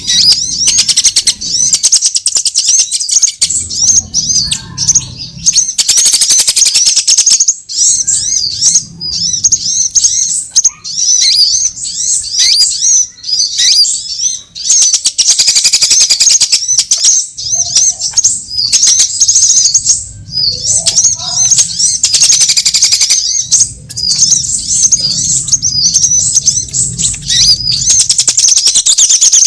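Sunbird lure recording: loud, rapid, high-pitched chirping and twittering in long runs with short breaks, with a low rumble coming and going underneath.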